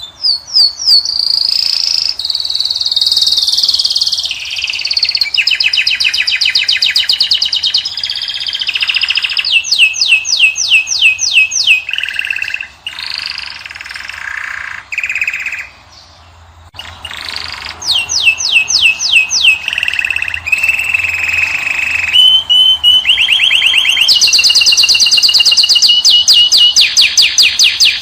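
European (Moroccan) goldfinch and canary song: a continuous, loud high-pitched song of fast trills of rapidly repeated notes, mixed with twittering and sliding phrases, with a brief lull about halfway through.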